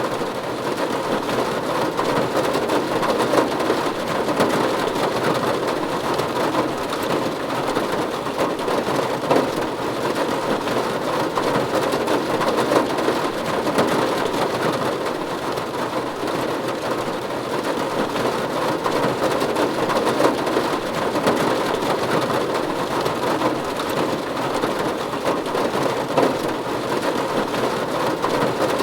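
Steady rain falling on a roof, a dense even patter of drops with no let-up.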